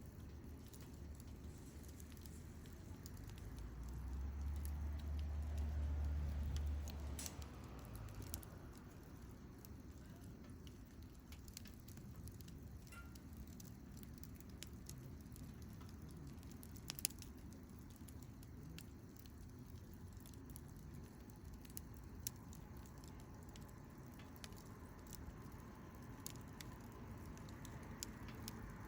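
Wood fire crackling, with scattered small pops and one sharper pop past the middle. A low rumble swells and fades a few seconds in.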